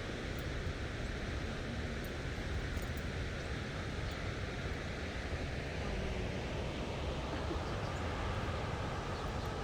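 Steady outdoor background noise: a low rumble with an even hiss over it, without clear events.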